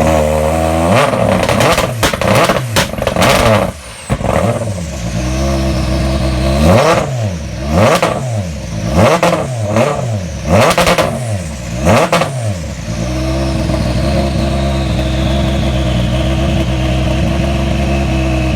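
Toyota Yaris WRC's 1.6-litre turbocharged four-cylinder rally engine blipped hard about ten times in quick succession, with sharp bangs from the anti-lag system at several peaks. It then settles to a steady, lumpy idle for the last few seconds. The recording is loud enough to clip and distort.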